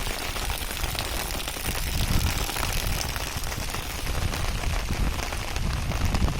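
Heavy rain falling steadily: a dense hiss of many drops striking, over a low rumble.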